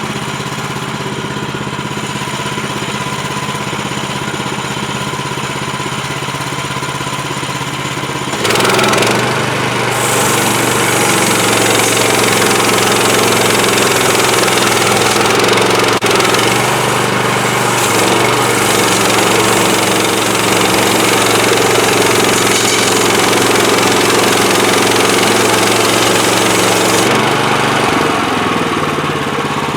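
Small petrol engine of a portable bandsaw mill idling steadily, then throttled up suddenly about a third of the way in and running loud and hard under load, with a hiss over it typical of the band blade cutting through a log; near the end it eases back down.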